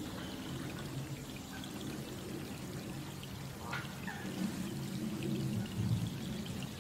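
Steady rain falling on the open surface of a pond, an even, continuous patter and splash.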